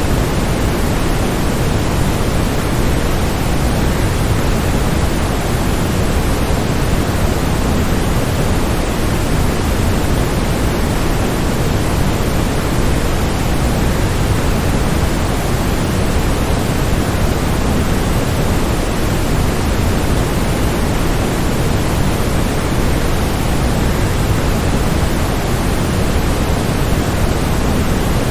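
Waterfall's steady rushing of falling water, an even, unchanging noise heaviest in the low end.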